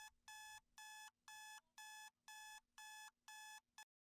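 Faint electronic alarm beeping in a steady pattern, about two beeps a second, that stops abruptly near the end.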